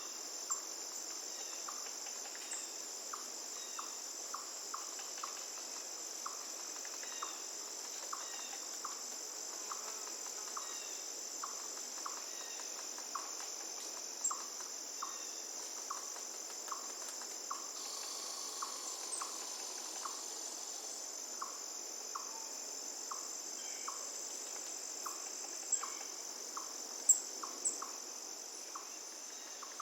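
Crickets trilling steadily and high-pitched over faint running water, with short sharp chirps repeating about twice a second and a few louder clicks near the end.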